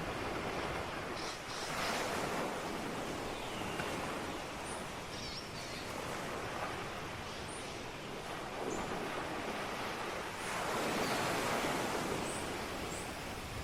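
Ocean waves breaking and washing on a shore, a steady rush that swells about two seconds in and again, louder, from about ten to twelve seconds.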